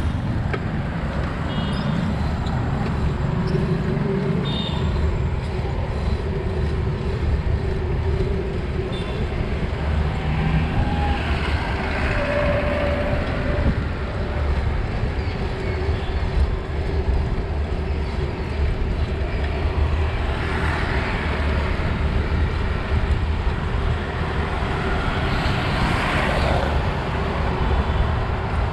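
Steady road traffic noise mixed with wind rush on a moving bicycle's action-camera microphone, heaviest in the low end, with a few brief faint tones now and then.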